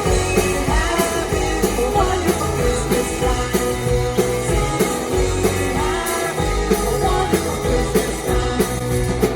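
Live rock band playing a British rock song, with a singer, guitar and drums.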